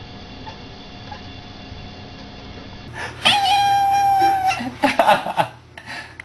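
A cat gives one long, level yowl starting about three seconds in, followed by a run of shorter, broken calls.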